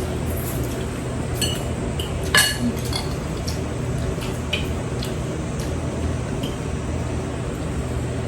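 Cutlery clinking against dinner plates during a meal: scattered light clinks and taps, the loudest about two and a half seconds in, over a steady low background hum.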